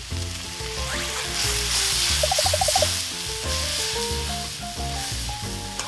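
Oysters sizzling in oil in a hot stainless steel pan as soy sauce is poured in and the pan is shaken. The sizzle swells about a second and a half in and eases after three seconds.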